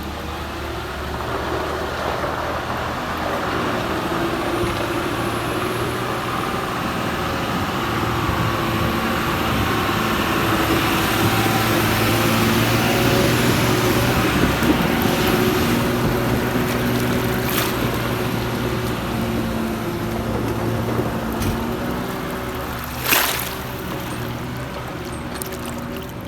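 Tata LPT 3118 twelve-wheel truck's diesel engine running, growing louder to a peak around the middle and then easing off. A brief sharp hiss comes a few seconds before the end.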